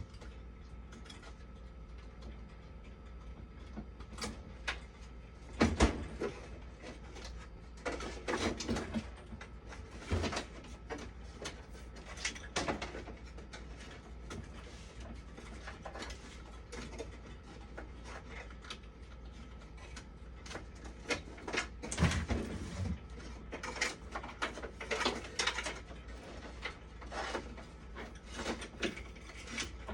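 Irregular clicks, knocks and clatter of hand work on a machine's parts, as of screws, tools and panels being handled, over a steady low hum. The sharpest knocks come about six seconds in and again about twenty-two seconds in.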